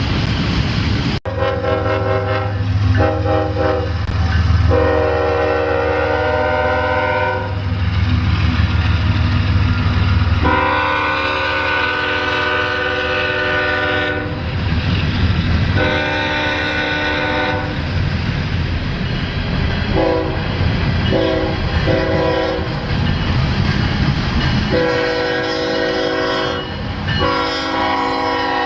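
A locomotive's multi-tone air horn sounding a series of blasts, some long and some short, over the steady low rumble of the passing train. There is a brief break in the sound about a second in.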